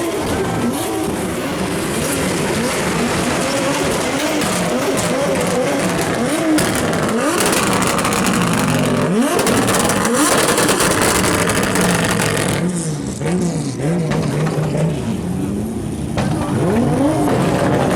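Turbocharged drift car engines revving up and down over and over, with sharp pops and bangs from the exhaust as the anti-lag system fires.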